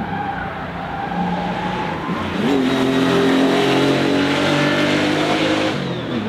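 Kalmar 7-97 Porsche 964 restomod's air-cooled flat-six revving hard: the engine note climbs sharply about two seconds in, holds at high revs for about three seconds, then drops away near the end.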